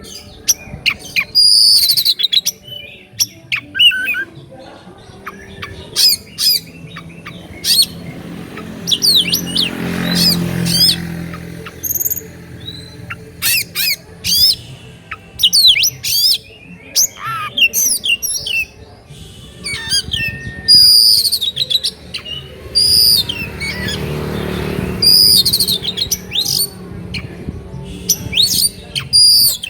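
Oriental magpie-robin singing continuously: rapid, varied whistles, sharp chips and harsh squawky notes in quick succession. A low rumble swells and fades twice, about ten seconds in and again near 24 seconds.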